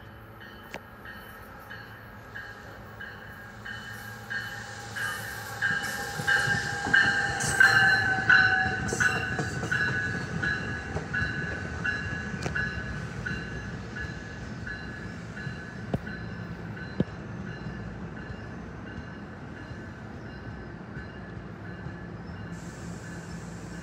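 NJ Transit train passing: it builds up, is loudest about seven to eight seconds in, then carries on more quietly as the cars roll by. Wheels click over the rail joints in a steady rhythm of about two a second.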